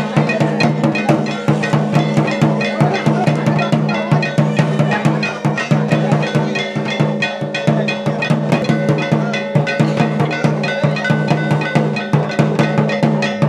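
Dance music: fast, steady drumming with metallic clanging strikes over a held low tone.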